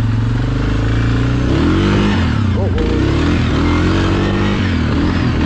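ATV engine running steadily, then revving up and easing off several times from about a second and a half in as the quad works over a log on the trail.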